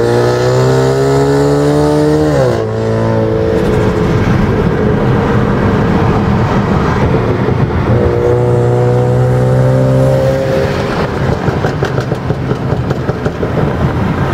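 Ford Mustang engine fitted with a new aftermarket downpipe and not yet tuned, heard from inside the cabin while accelerating on the highway. The engine note climbs for about two and a half seconds and drops at a gear change, holds steady, then climbs again about eight seconds in and drops at another shift around eleven seconds, over steady road noise.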